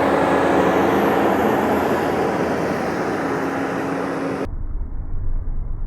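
JCB Fastrac 4220 tractor engine running steadily under load while pulling a mole plough through the ground. About four and a half seconds in, the sound cuts off suddenly to a duller low rumble.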